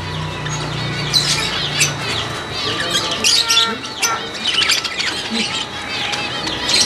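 Many birds chirping and squawking at once in dense, overlapping calls, like a flock or aviary, with a low hum fading out in the first second.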